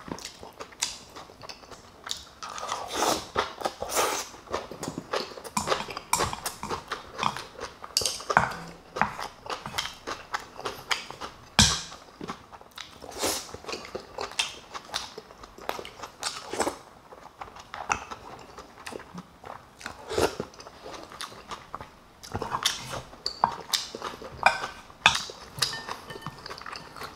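Close-miked chewing and crunching of a Korean home meal of kimchi, Spam and rice. Irregular crisp bites and mouth sounds come every fraction of a second, with a few sharper clicks.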